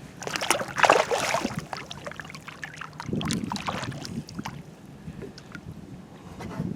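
Water splashing as a northern pike is let back into the lake over the side of a kayak. The loudest splashing comes about a second in, followed by weaker swishing and a few small sharp splashes.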